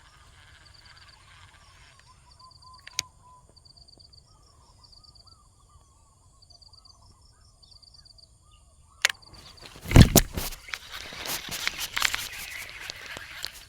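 Quiet outdoor ambience with short, evenly repeated high chirps, then loud rustling and crunching from about nine seconds in, as of someone moving through dry vegetation.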